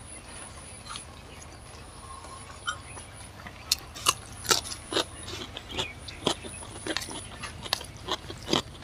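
Crisp crunching of a raw cucumber slice being bitten and chewed close to the microphone. A quick, irregular run of sharp crunches starts a few seconds in, after a stretch of only low hum.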